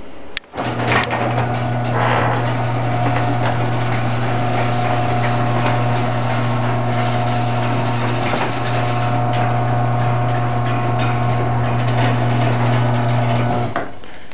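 Electric garage door opener running as the garage door closes: a steady motor hum with a fainter whine above it. It starts about half a second in and cuts off suddenly near the end as the door shuts.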